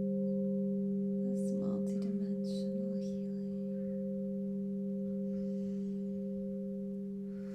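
Singing bowls ringing on in sustained, near-pure tones, with a low hum and two higher tones held steady together and slowly fading.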